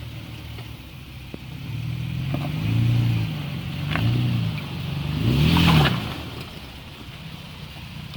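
Toyota Tacoma pickup engine revving in three swells, each rising and falling, as the truck crawls over trail rocks, with a few knocks under it.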